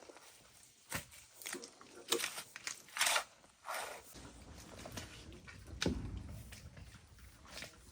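Wild boars grunting and squealing in short separate calls a second or so apart, the loudest about three seconds in.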